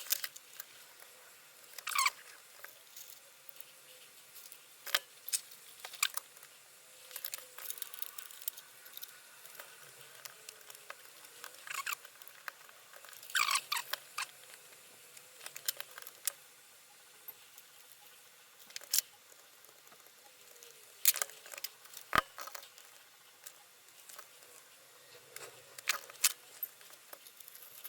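Plastic and metal parts of a Blu-ray player being handled during disassembly: scattered clicks, taps and short scrapes as ribbon cables are pulled from their connectors.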